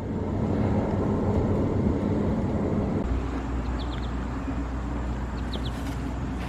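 Road traffic: a motor vehicle passing on the street, a rumble that swells over the first few seconds and then settles into a steady low engine drone.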